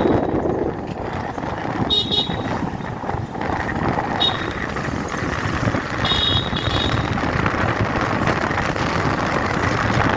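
Steady road and wind rush from riding in traffic, with short high-pitched vehicle horn beeps about two seconds in, again about four seconds in, and a longer run of beeps around six to seven seconds in.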